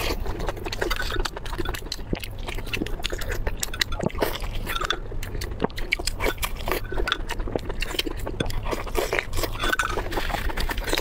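Close-miked eating sounds: a mouthful of braised meat with skin being bitten and chewed, with many quick wet clicks and smacks.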